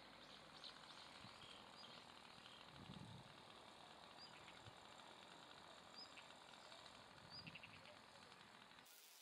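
Near silence: faint outdoor hiss with a few short, high bird chirps scattered through it.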